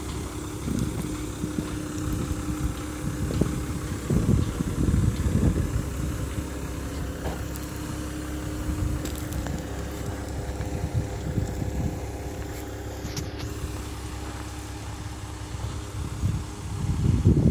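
Caterpillar 315L hydraulic excavator's diesel engine running steadily, with a louder stretch about four seconds in and a rise near the end.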